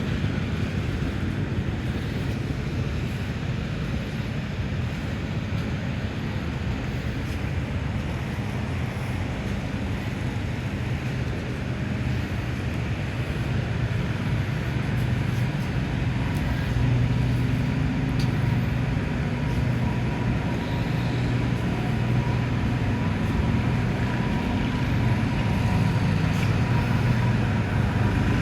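Garden tractor engine running steadily. It grows a little louder about halfway through, and a thin steady whine comes in with it.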